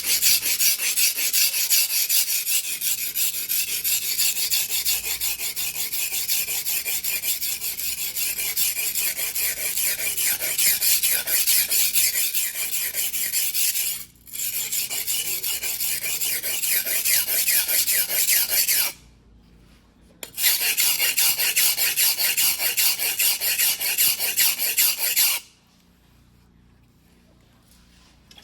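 A Mizuno Tanrenjo white-steel fuguhiki, a 270 mm single-bevel sashimi knife, being hand-ground on a whetstone in fast, steady back-and-forth rasping strokes. The grinding breaks briefly about halfway, pauses for over a second a little later, then stops a few seconds before the end.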